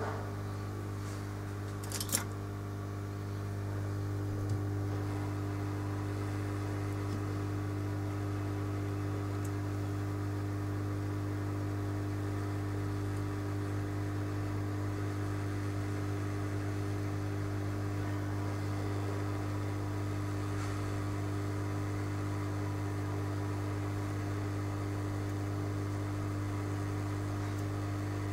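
Steady low electrical hum with several higher tones over it. There is one sharp click about two seconds in.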